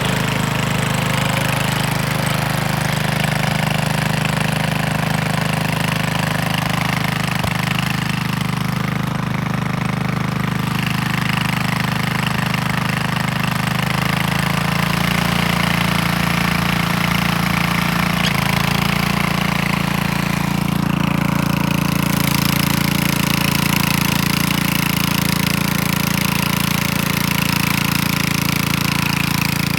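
Engine of a working machine running steadily under load, its note shifting a little a few times.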